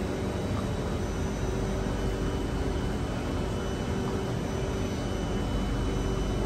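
Steady hum and rush of a stationary Circle Line MRT train standing at the platform with its doors open, with a few faint steady tones over it.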